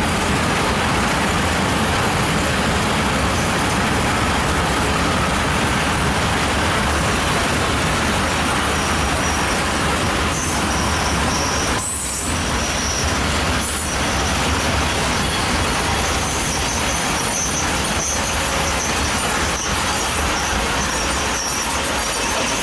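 Freight train of Eaos open wagons rolling past, a steady dense rumble and rattle of wheels on the rails. From about halfway, thin high-pitched squeals come and go over it, along with a few short knocks.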